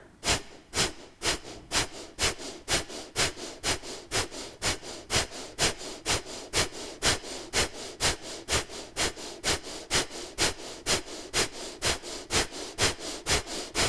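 Kapalbhati (breath of fire) breathing: short, sharp breaths forced out through the nose in a steady rhythm of about two a second.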